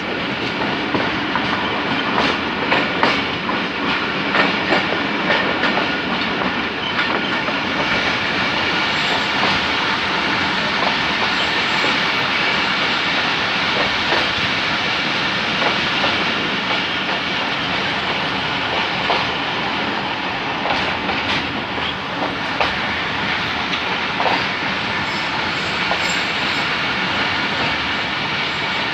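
Passenger coaches of the Millat Express rolling past at slow speed, a steady rumble with wheels clicking over rail joints.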